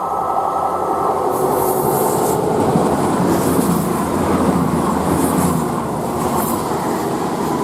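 A train passing close by: a loud, dense rumble of wheels on the rails with a steady drone underneath, and a higher hiss that comes and goes every second or so.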